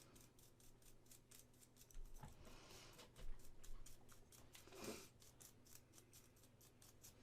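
Near silence with a faint hum, broken by light clicks and a few soft taps from small hard parts being handled.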